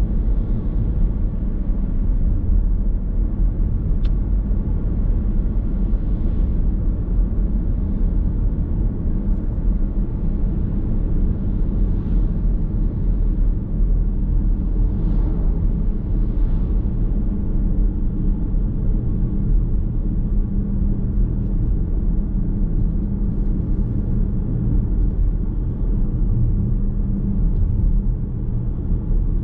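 Car driving on the road, heard from inside the cabin: a steady low rumble of tyre and engine noise, with a brief tick about four seconds in.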